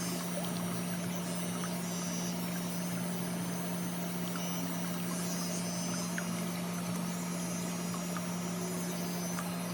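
A steady electric motor hum over an even hiss, unchanging throughout, with a few faint ticks.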